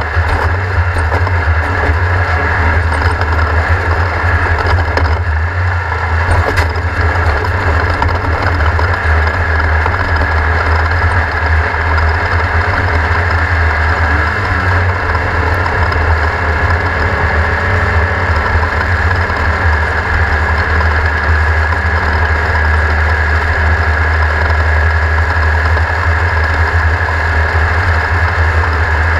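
Off-road race car's engine running loud and close, holding a steady pitch with little change in revs, and a faint steady whine above it.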